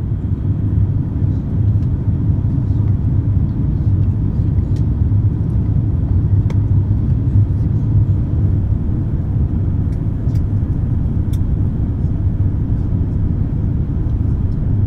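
Airbus A350-900 cabin noise during the approach: a steady low rumble of the engines and the airflow over the fuselage, with a few faint clicks.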